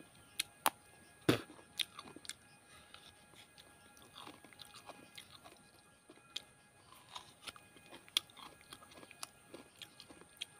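A person chewing mouthfuls of fresh coconut flesh close to the microphone: irregular crisp crunches and mouth clicks, the loudest about a second in.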